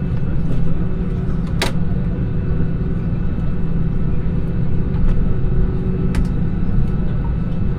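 Steady low rumble of an Airbus A320 cabin heard from a window seat, with faint steady tones over it. A sharp click about one and a half seconds in and a fainter one near six seconds.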